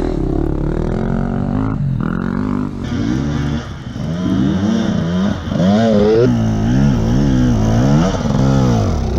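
Dirt bike engine revving up and down in repeated swells, several in quick succession over the second half, as the bike is worked through a difficult obstacle that many riders struggle with.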